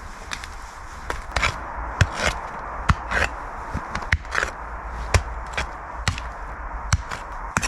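Irregular chopping strikes from a hand tool, a dozen or so sharp knocks at uneven spacing, a few of them trailing into a brief scrape.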